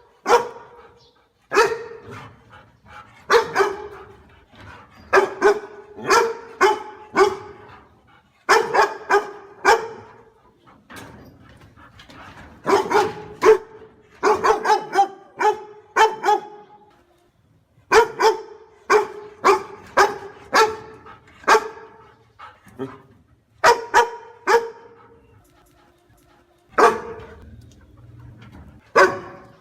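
A dog barking in short volleys of two to five sharp barks, with pauses between the volleys.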